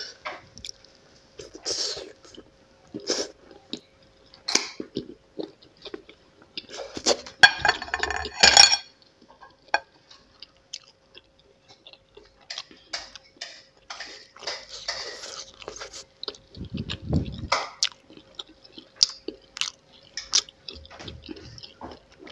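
Close-miked chewing of spicy instant noodles: wet mouth sounds and small irregular clicks, with a louder burst of noise about seven to eight seconds in and a dull low thump later on. A faint steady hum runs underneath.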